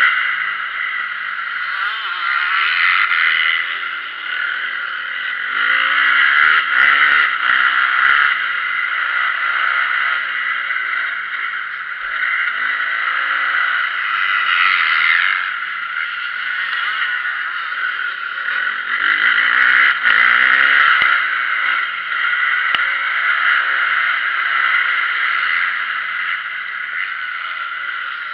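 Motocross bike engine revving, its pitch rising and falling again and again as the throttle opens and closes.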